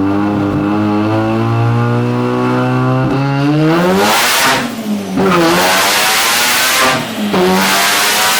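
Mazda RX-7 FC's turbocharged 13B rotary engine on a dyno pull under full load, its note climbing steadily and then faster into a loud roar. The revs and loudness drop briefly twice, about five and seven seconds in, and climb again each time. The engine is tuned rich, at about 10 AFR on 11 psi of boost.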